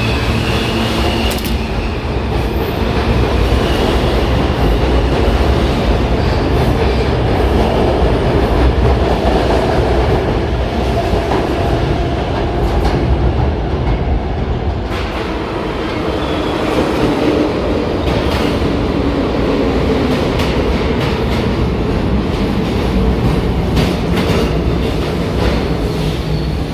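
New York City subway train moving along an underground station platform, its wheels clattering over the rail joints in a steady, loud run.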